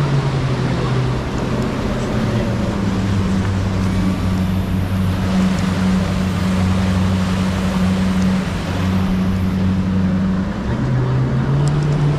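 Fishing boat's engine running steadily under way, over a constant rush of wind and water. The engine note shifts about half a second in and again near the end.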